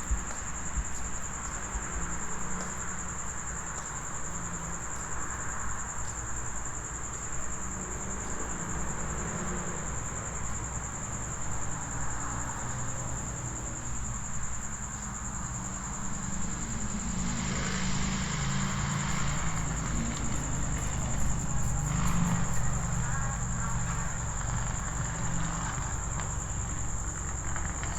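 Steady high chirring of crickets, over the low rumble of traffic on a nearby busy road, with a vehicle passing loudest about two-thirds of the way through.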